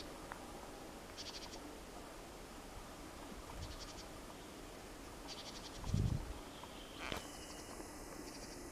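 Short, high, rapidly pulsed trilled calls from a small animal in the forest, repeating about every two seconds over a steady background hiss. A low thump about six seconds in and a sharp click about a second later.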